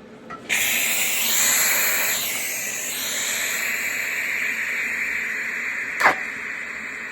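Electric arc welding: a steady sizzling arc starts about half a second in and runs on, with one sharp pop near the end.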